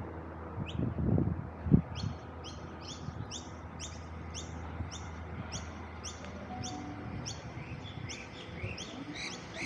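A bird calling a quick run of short, high chirps, each falling in pitch, about two a second. A couple of low thumps in the first two seconds, the loudest about two seconds in.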